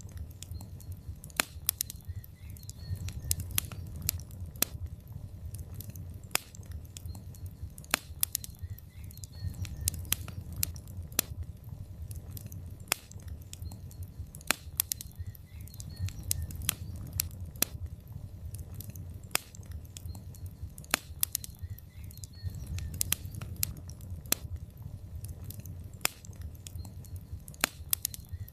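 Wood fire of burning logs in a fireplace, crackling with frequent sharp, irregular pops over a low, steady rumble of flame.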